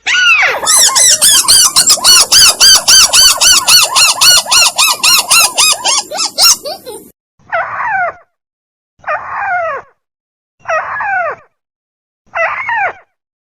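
Bird-lure recording of the burung tikusan, a rail: a fast run of repeated rising-and-falling call notes, about four a second, for the first six seconds or so, then four separate calls sliding down in pitch, each about a second and a half apart.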